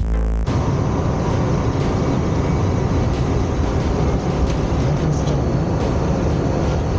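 Steady rush of airflow around the KR-03 Puchatek glider's cockpit in gliding flight, with no engine. A music track cuts off about half a second in.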